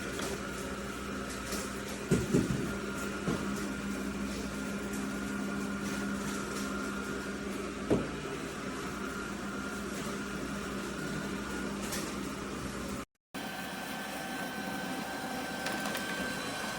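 Robot vacuum running with a steady motor hum and whine, with a few short knocks about two, three and eight seconds in. It is stuck going over the same spot again and again. The sound breaks off briefly near the end.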